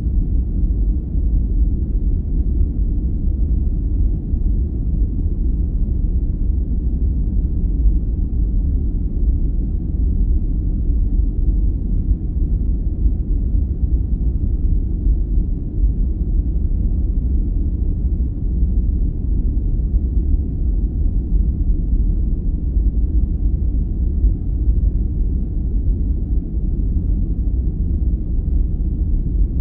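Steady, unchanging sleep-aid noise, all deep rumble with no hiss on top, closer to brown noise than to true white noise.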